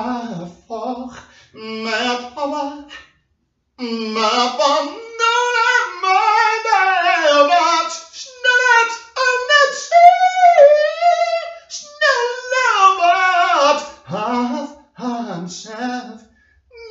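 A lone voice singing without accompaniment, in phrases of held, sliding notes with short pauses between them.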